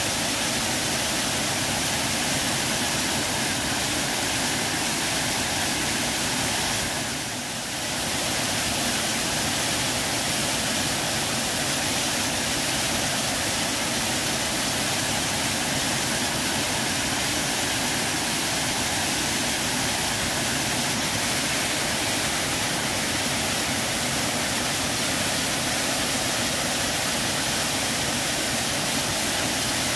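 Waterfall cascading: a steady, full rush of falling water, briefly softer about seven seconds in.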